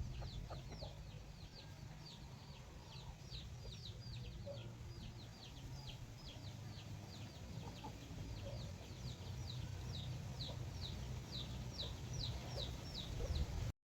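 Chicks peeping: a steady run of short, high chirps, each sliding down in pitch, several a second from more than one bird, over a low steady rumble. It cuts off abruptly near the end.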